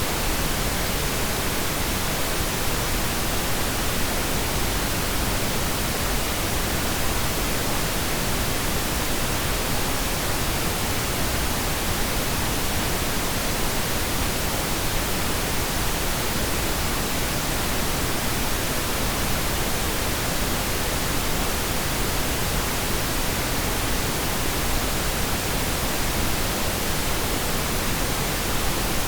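Steady pink noise: an even, unchanging hiss spread across the whole range from low to high, with no events or changes.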